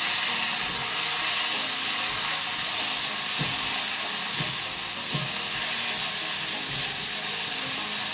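Ground chilli paste, shallots and garlic sizzling in hot fat in a wok, with a spatula stirring and scraping the pan. The steady frying hiss carries throughout, with a few short scrapes near the middle.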